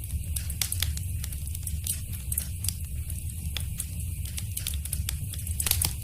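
Wood fire burning in a fireplace: irregular sharp crackles and pops over a steady low rumble of flame, with a quick cluster of louder pops near the end.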